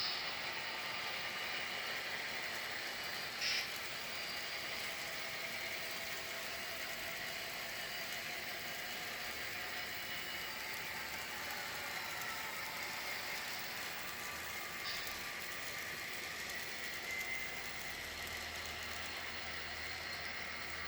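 Train rolling past on the rails: a steady rattle of wheels on track with thin, high squealing tones running through it.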